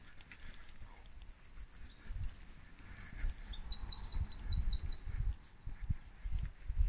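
A songbird singing a song of rapid, repeated high notes for about four seconds, in several quick runs broken by a short buzzy note, starting about a second in. A low rumble runs underneath.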